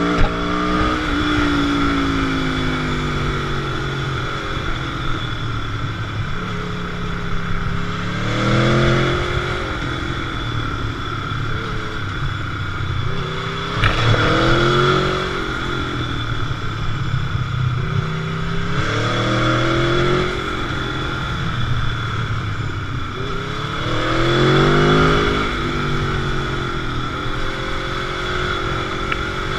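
Motorcycle engine heard on board, pulling hard through the gears: the revs climb in repeated surges about every five seconds, each followed by a drop as the next gear goes in, over a steady hiss.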